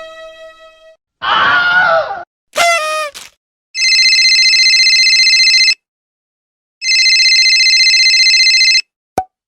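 Short sound-effect clips in a row: a brief wavering scream-like cry and a quick falling squeal, then a telephone ringing twice, each ring about two seconds long with a fast trill and a second's pause between, and a click near the end.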